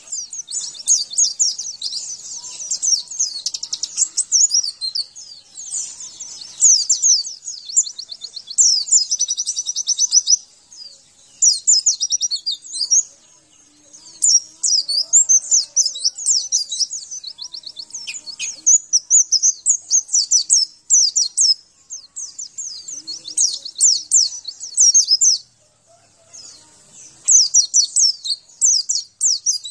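White-eye (pleci) singing a fast, high-pitched twittering song in long phrases broken by short pauses.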